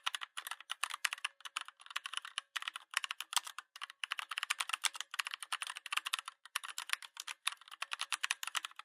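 Rapid typing on a computer keyboard: a dense run of quick keystroke clicks with a few short pauses.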